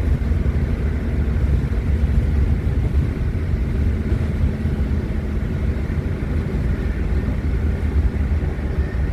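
Steady low road and engine rumble of a car driving along at a constant speed, heard from inside the cabin.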